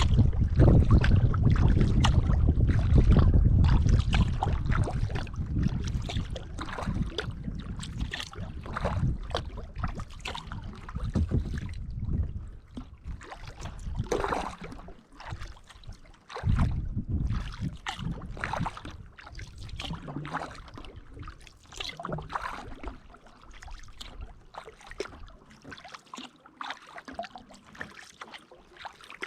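Kayak paddle strokes: blades dipping into and pulling through the water, with splashing and dripping. For the first few seconds, wind buffets the microphone with a low rumble that fades out.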